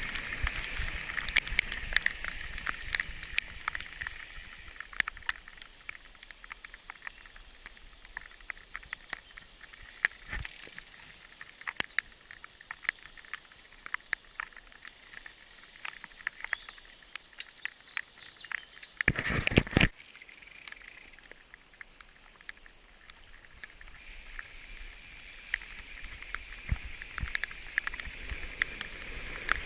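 Bicycle riding over a rough dirt track: the tyres crunch and rattle, with many small clicks and knocks. A steady high buzz is strong at the start and again near the end. One louder jolt or bump comes about two-thirds of the way through.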